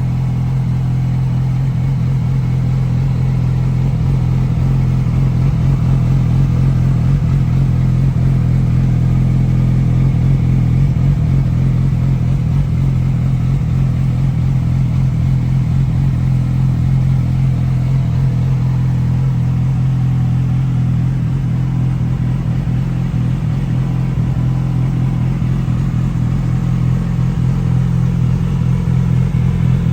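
2007 Yamaha YZF-R6's inline-four engine idling steadily through a GYTR exhaust with catalytic converter.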